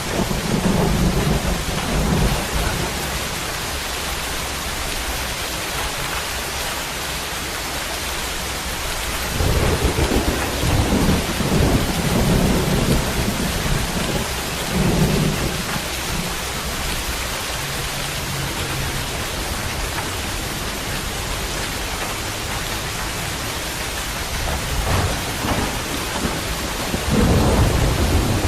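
Steady heavy rain hissing, with thunder rumbling low in three spells: at the start, through the middle, and again near the end.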